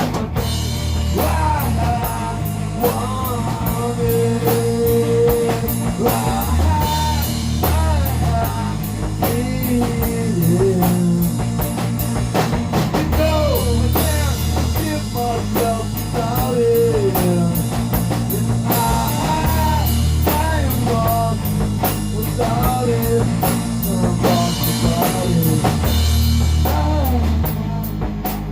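Rock song with a drum kit keeping a steady beat, heavy bass notes, and guitar tuned a half step down, with a melodic lead line over the top.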